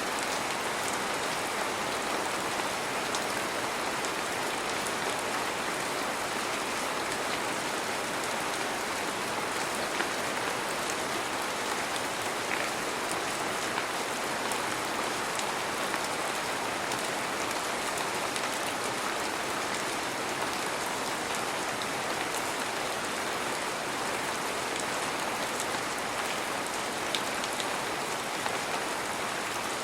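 Heavy rain falling steadily, an even dense hiss with scattered sharper drop ticks.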